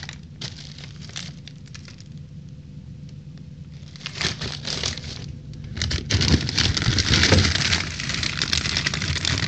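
Plastic packaging of frozen food crinkling and rustling as packages are handled and moved around in a freezer: sparse clicks at first, then denser and louder crinkling from about six seconds in.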